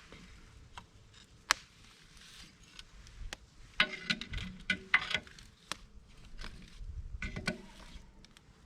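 Wood campfire crackling and popping, with sharp irregular pops: a single loud one about a second and a half in, then clusters of louder crackles around the middle and again near the end.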